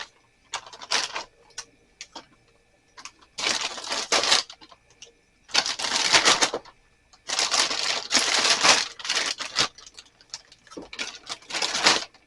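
Handling noises: several bursts of crackly rustling and clattering, each about one to two seconds long, with scattered clicks between them.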